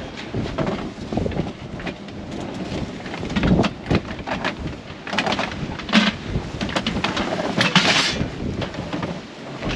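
Storm wind gusting hard against the microphone, with rain, in uneven rushes and crackling buffets; the loudest gusts come around the middle and near the end.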